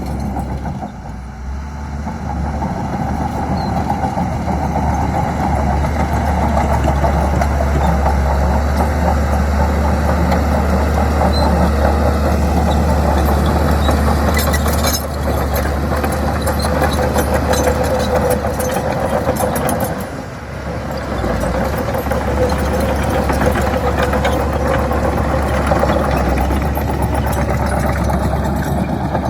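Diesel engine of a heavy construction machine (excavator or bulldozer) running steadily at work. The engine note dips briefly about a second in and again about twenty seconds in, with scattered clicks or clanks in the middle.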